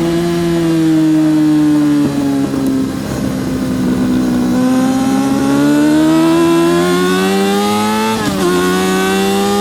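Yamaha R6's inline-four engine at racing revs: the pitch sags slowly through the first half, then climbs steadily as it accelerates hard, with a quick upshift about eight seconds in before climbing again.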